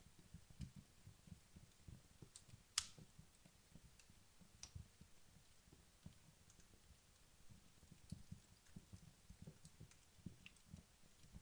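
Wood fire in a fireplace burning down, crackling faintly with sparse, irregular pops and one sharper crack about three seconds in.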